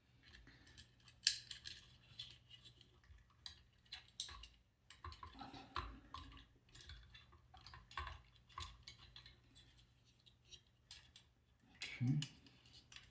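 Hands working cables and small plastic robot-kit parts, pulling wires through a plastic cap: faint, irregular light clicks, taps and rustles.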